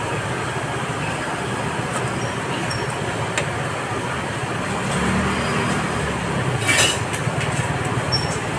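Steady vehicle or traffic noise, with a louder low rumble passing through about halfway and a brief clatter shortly after.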